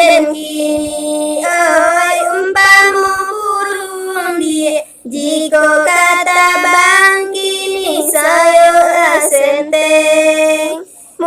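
A high solo voice singing a Minangkabau dendang in long held notes with ornamental bends and slides. It breaks off briefly about five seconds in and again near the end.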